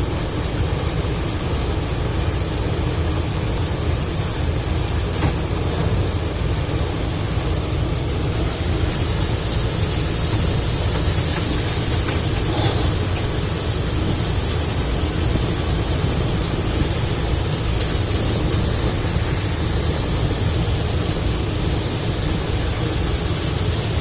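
Mahindra tractor's diesel engine running steadily with a deep rumble. A steady high hiss joins it about nine seconds in.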